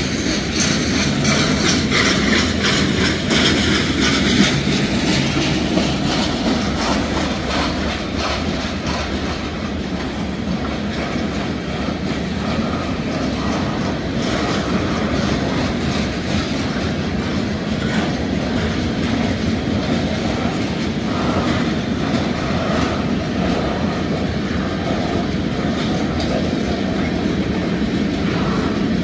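Freight cars of a Norfolk Southern manifest train rolling past at a steady speed: a continuous rumble of steel wheels on rail with a rhythmic clickety-clack as the wheels cross rail joints.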